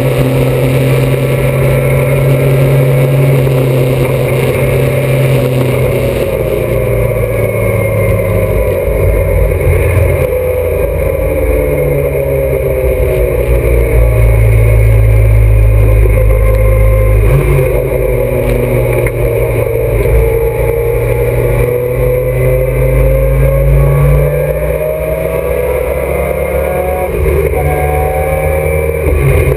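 Alfa Romeo GTA's twin-cam four-cylinder racing engine, heard from inside the cabin, pulling hard on track. The revs climb and drop back repeatedly with the gear changes and braking for corners.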